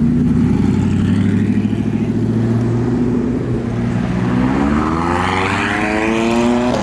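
Car engine running with a low, steady note, then accelerating from about four seconds in, its pitch climbing steadily.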